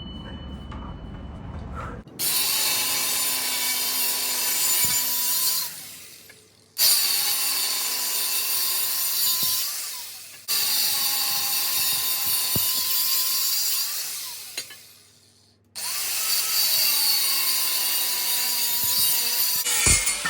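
Power tool with an abrasive cutting disc cutting through 40x40 steel box section, in four runs of about four seconds each. The motor's whine drops away after each run as the tool is let off.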